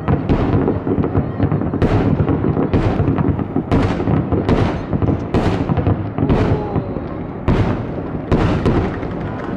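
Fireworks display: a rapid barrage of aerial shells bursting, sharp booms about one a second over a continuous rumble and crackle.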